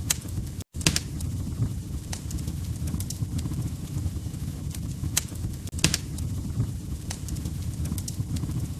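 Log fire crackling in a fireplace: a steady low rumble of flames with sharp pops and snaps at irregular moments, and a brief cut to silence under a second in.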